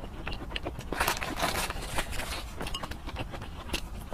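Close-miked chewing: many short, wet mouth clicks and smacks. About a second in comes a longer rushing noise lasting over a second.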